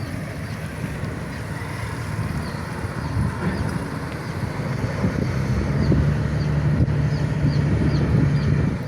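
A large diesel engine running steadily with a low drone that grows louder about six seconds in, over a haze of wind and water noise. Faint short high chirps repeat through it.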